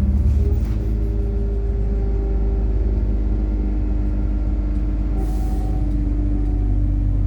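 Methane-fuelled MAZ-103 city bus running, heard from inside: a steady low engine and road drone with a faint whine, and a brief hiss of air from the bus's pneumatic system about five seconds in.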